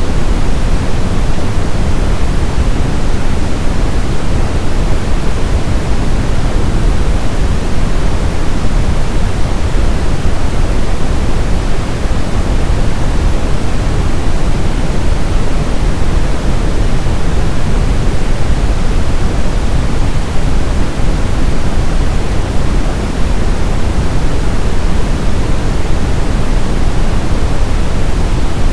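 Steady brown noise: a loud, even hiss-rumble weighted heavily toward the low end, with no changes or events.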